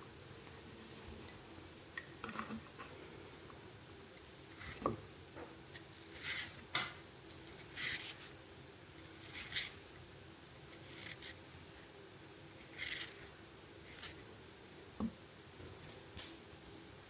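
A series of short, light scraping strokes, about ten of them at irregular intervals, over a faint steady hum.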